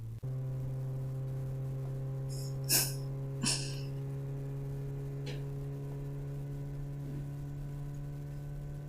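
Car engine running at a steady drone, heard from inside the car, with two short sharp sounds about three seconds in.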